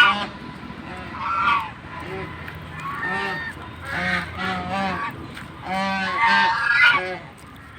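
Domestic geese honking, a run of short arched calls coming every second or so, several in quick succession around the middle.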